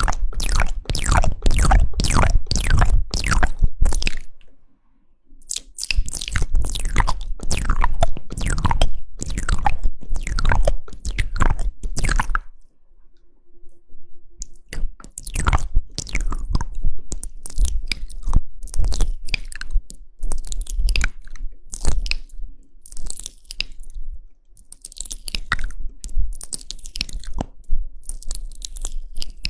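Close-miked ASMR mouth sounds: rapid wet clicks, smacks and tongue pops in quick runs. There is a short break about four seconds in and a quieter stretch about halfway, after which the clicks come more sparsely.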